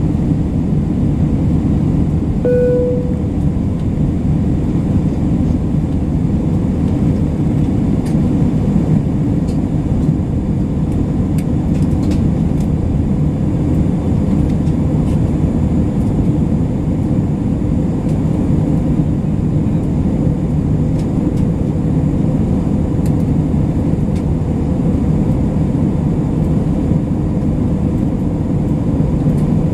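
Steady in-flight cabin drone of an Airbus A320, engine and airflow noise heaviest in the low range, with a brief single tone about two and a half seconds in.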